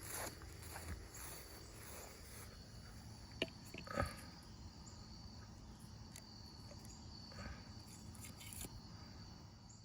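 Crickets calling steadily, a faint high continuous tone, with a few short knocks about three and a half and four seconds in.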